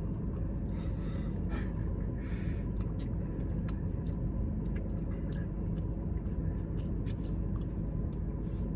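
Steady low rumble of a car cabin with the engine running, with scattered small clicks and two short rushes of noise about a second and two and a half seconds in.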